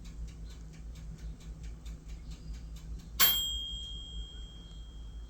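Mallard drakes' bills pecking at food, a run of light clicks at about four a second. About three seconds in comes one sharp clink that rings on with a clear high tone and fades over a couple of seconds.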